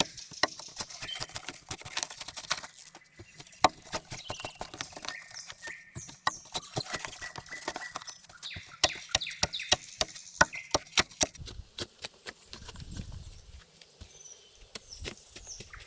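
Irregular sharp knocks and taps, at times several a second, typical of hand-tool work on wood, with short bird chirps between them.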